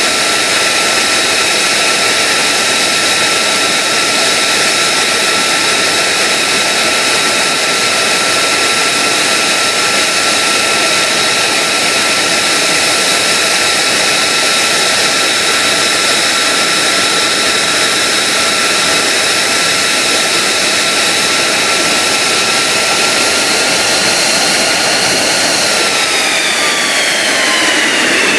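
F-35A Lightning II's Pratt & Whitney F135 turbofan running steadily with a high whine. Near the end the pitch rises slightly, then falls away as the engine starts to wind down.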